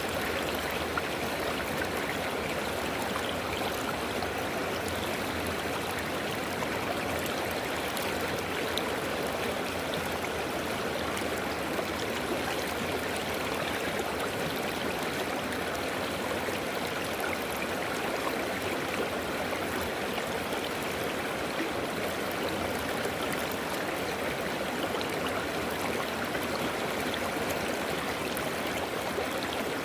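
River water running steadily over rocks: a constant rushing and babbling flow, with small splashes and gurgles scattered through it.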